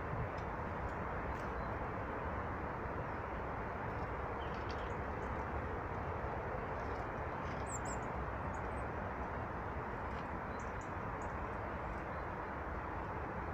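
Small birds giving a few faint, short, high chirps, mostly in the second half, over a steady rushing background noise.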